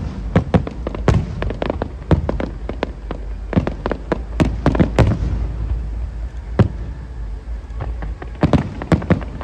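Aerial fireworks display: many sharp, irregular bangs of shells bursting, over a steady low rumble. The bangs come thick for the first half, thin out past the middle, then come in a close cluster again near the end.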